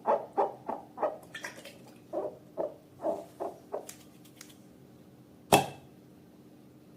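Slime being squeezed and pressed, giving short wet squelches about three a second that stop a little under four seconds in, followed by one sharp click about five and a half seconds in.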